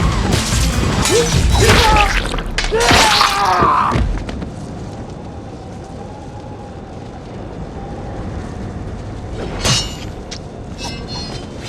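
Film soundtrack: loud dramatic score with booming hits for about four seconds, then it drops to a quiet, faintly wavering held note. Two sharp impacts come around ten seconds in.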